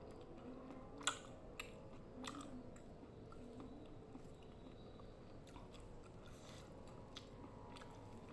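Quiet close-up chewing and mouth sounds of someone eating rujak with lontong, cucumber and vegetables, with scattered small wet clicks. A single sharp click about a second in is the loudest sound.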